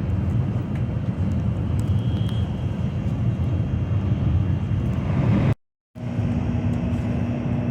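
Steady rumble of a moving high-speed train. A little over five seconds in it cuts out completely for a moment, then returns with a steady low tone under the rumble.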